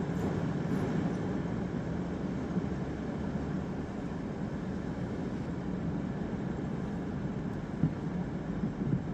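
Steady engine and road noise heard from inside a car while it drives, with two short knocks near the end.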